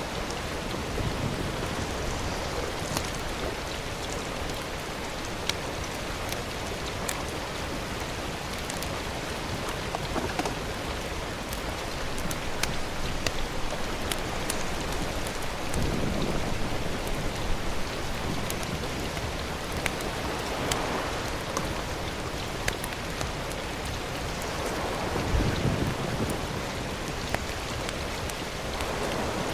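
Steady outdoor hiss peppered with many small sharp ticks, with two low rumbling swells, one about halfway through and one near the end.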